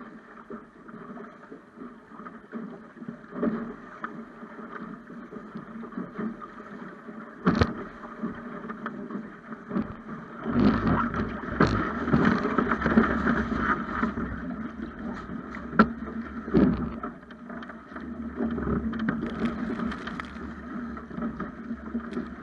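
Water rushing along the hull of a Snipe sailing dinghy under way, with wind on the microphone, swelling louder a little before halfway. A few sharp knocks come through, the clearest about a third of the way in and again about two-thirds in.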